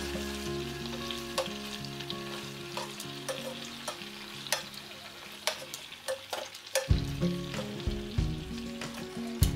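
Chicken pieces sizzling in hot oil with garlic in a pot while metal tongs turn them, clicking and scraping against the pot.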